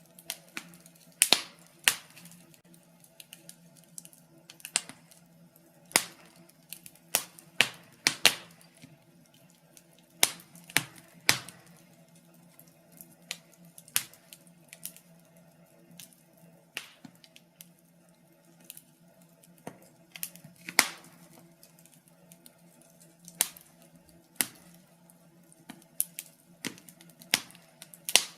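Wood fire in a fireplace crackling, with irregular sharp snaps and pops, some much louder than others, over a faint steady low hum.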